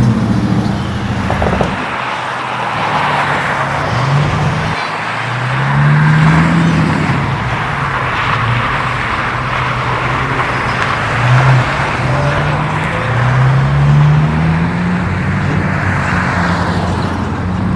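Motor vehicle engine revving, its pitch rising and falling again several times, over steady road and traffic noise.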